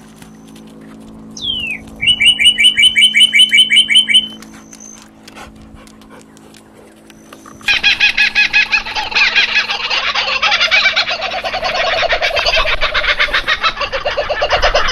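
Wild birds calling loudly: a short falling whistle, then a fast run of about twenty sharp repeated notes lasting two seconds, and from about eight seconds in a long loud chattering chorus of rapid rolling notes.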